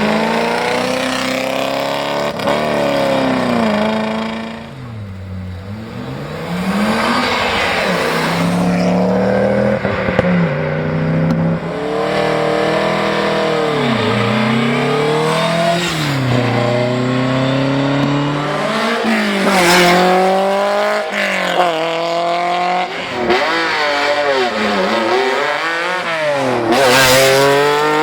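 Historic rally car engines being driven hard. The revs climb and drop again and again, every second or two, as the throttle is worked through bends, with a quieter lull around five seconds in and a loud burst near the end.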